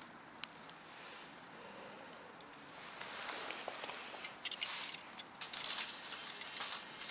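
Wood fire in a small fire pit crackling, with scattered sharp pops and a hissing rush that grows from about three seconds in. The pops come thickest and loudest a little past the middle.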